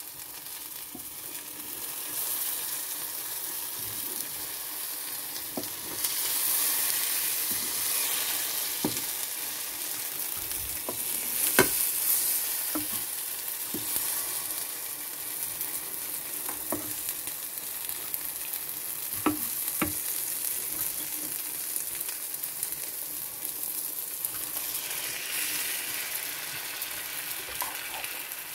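Egg and vegetable omelette sizzling steadily in a frying pan, the sizzle growing louder about six seconds in. A wooden spatula now and then knocks against the pan with short clicks.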